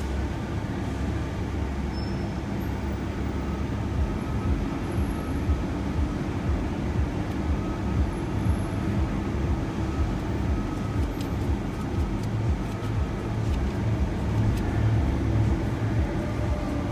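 Road and engine noise inside a moving shuttle van: a steady low rumble.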